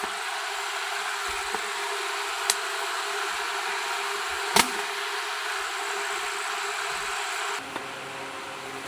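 Electric fan running with a steady whirring hiss and a faint hum, with two sharp clicks about two seconds apart. Near the end the sound drops in level and changes colour.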